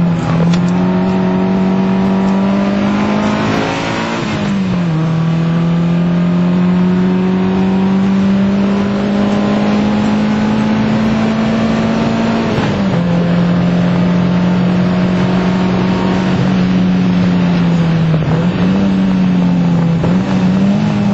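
Fiat Punto Mk1 1.2 16v four-cylinder engine heard from inside the cabin, pulling hard on track. Its pitch climbs slowly through each gear and drops sharply at upshifts about four seconds in and again about twelve seconds in. Near the end the pitch sags, then jumps up twice, over steady road and wind noise.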